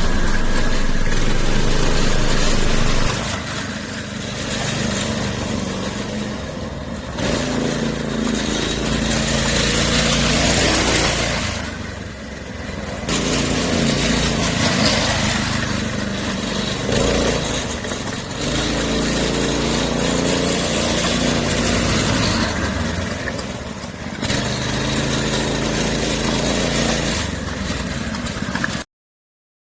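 Engine of a homemade two-seat kart running while driving, its level and pitch rising and falling as the throttle opens and closes. The sound cuts off abruptly near the end.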